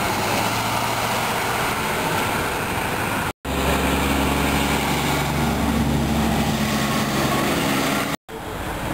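Vehicle engines running amid roadside traffic noise. The sound drops out abruptly twice, and between the dropouts a large engine idles with a steady low hum.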